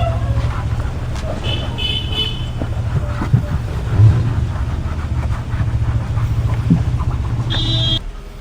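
A steady, loud low machine hum that cuts off suddenly near the end, with two short high horn-like toots, one about two seconds in and one just before the hum stops.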